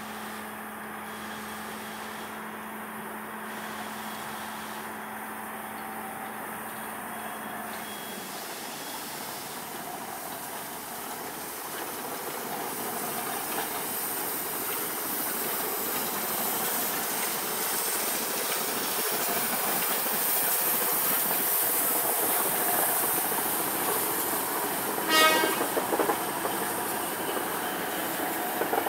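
A train approaching, its running noise growing steadily louder, with one short horn or whistle blast about 25 seconds in.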